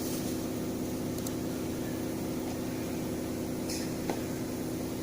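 Leather cutting machine running with a steady, even hum, with a few faint clicks over it.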